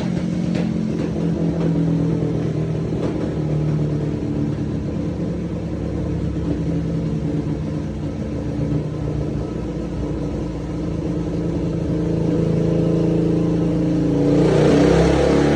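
Suzuki DR-Z400's single-cylinder four-stroke engine running on a dyno through an MRD Z-Pro exhaust, holding a steady speed. Near the end it gets louder and climbs in pitch as the throttle opens for a pull.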